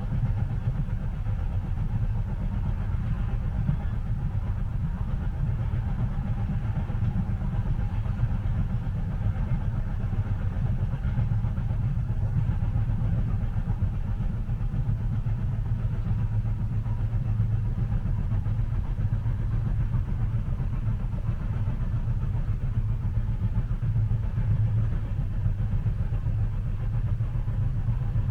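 Train running, heard from inside the passenger carriage: a steady low rumble with a fainter hiss above it.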